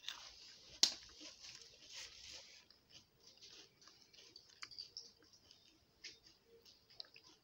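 Close-up chewing of a mouthful of chocolate bar: small crunches and wet mouth clicks, with one sharp click about a second in.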